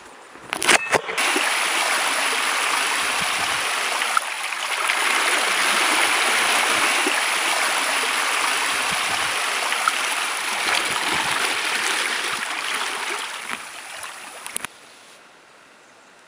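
Steady rush of running or washing water, after a few sharp handling clicks about half a second in; it cuts off abruptly near the end.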